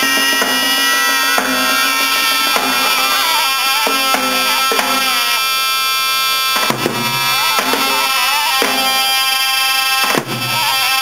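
Bağlama played in a free, improvised style: a winding melody over ringing drone strings, punctuated by sharp, accented strokes every second or so.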